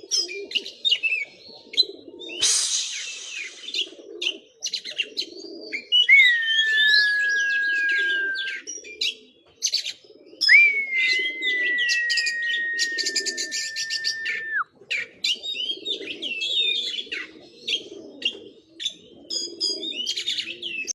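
Oriental magpie-robin singing a varied run of mimicked songs: quick chirps and trills, a harsh buzzy burst about two seconds in, and two long steady whistles, the second held about four seconds. A low, repeated call runs underneath.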